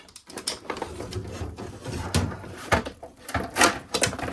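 Objects being handled and moved about: irregular knocks, clatter and rustling, with the loudest knocks about three and a half seconds in.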